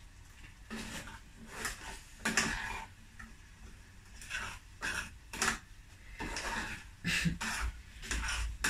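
A spoon stirring a pot of tomato relish, scraping and knocking against the pot about a dozen times at irregular intervals.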